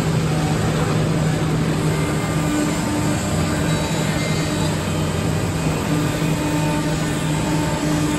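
A CNC woodworking machine running: a steady mechanical noise with a constant low hum and a higher tone that comes and goes.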